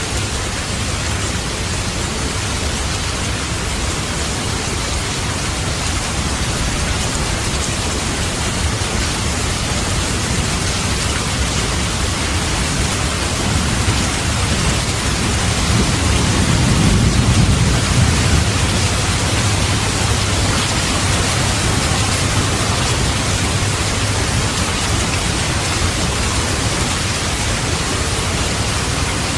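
Steady rain hissing, with a low rumble of thunder that swells and fades about halfway through.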